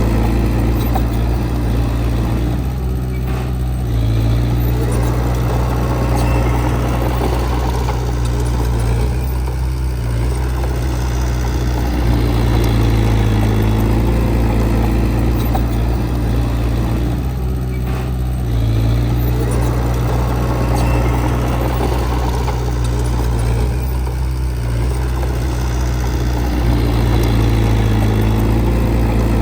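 Heavy diesel engine of earthmoving equipment running steadily, its note easing and building again every several seconds as the load changes.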